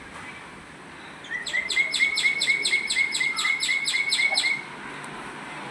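A bird calling a fast, even run of about fifteen identical chirping notes, some five a second, lasting about three seconds and starting a little over a second in.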